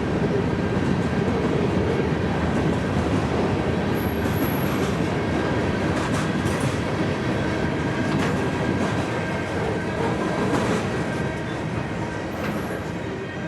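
Freight train cars rolling past, steel wheels running over the rails in a continuous rumble and clatter with a thin, steady high wheel squeal, easing off near the end.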